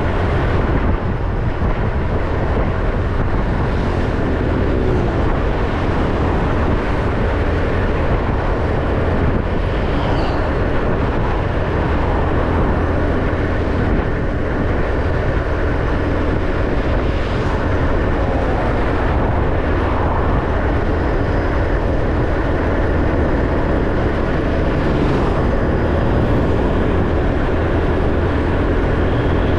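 Motorbike riding steadily on a road: its engine runs continuously under a dense, even rush of road and wind noise, with no breaks or sudden events.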